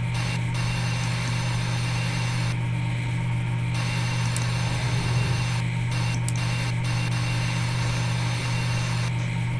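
A steady low hum, with a hiss above it that cuts in and out several times.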